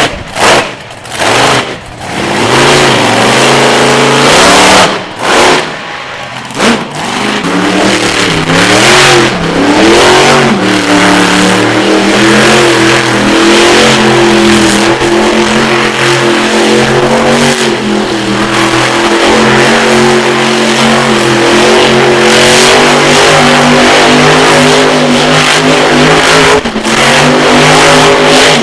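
Monster truck engine being revved in short bursts, its pitch rising and falling, then held at a steady pitch for the rest.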